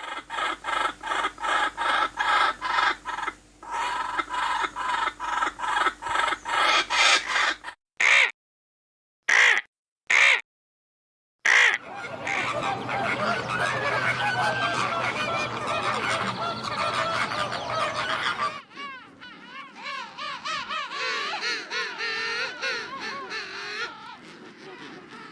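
Poultry calling in several edited clips. First comes a fast run of repeated pitched calls, a few a second. Next are a few single calls with dead silence between them, then many birds calling at once as a flock, thinning to wavering calls near the end.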